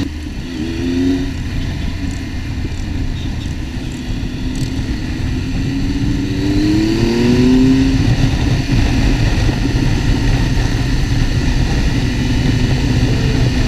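Motorcycle engine running under way, over a steady low rumble of wind and road noise. The engine note climbs briefly about half a second in, then rises more strongly from about six to eight seconds in as the bike accelerates.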